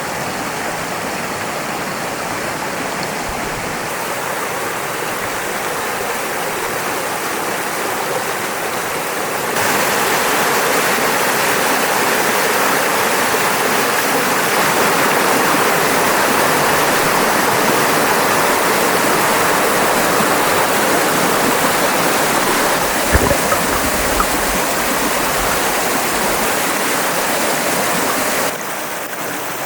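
Fast-flowing mountain stream rushing over rocks, a steady even roar of water. It gets louder about a third of the way in and drops back near the end, with a couple of brief low knocks a little after two-thirds of the way through.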